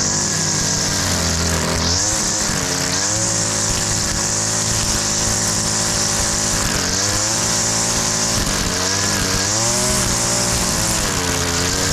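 Gas string trimmer running at high throttle with a steady high whine, its engine pitch rising and falling several times as the throttle is worked.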